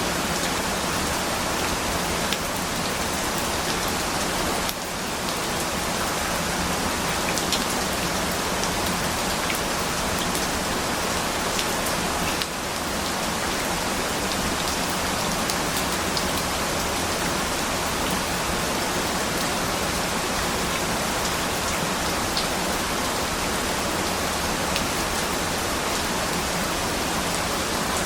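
Steady rain falling, a dense even hiss with individual drops ticking through it.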